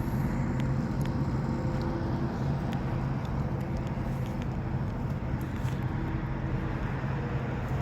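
A steady low hum, like an engine or machine running, holding one pitch with faint scattered clicks and rustles over it.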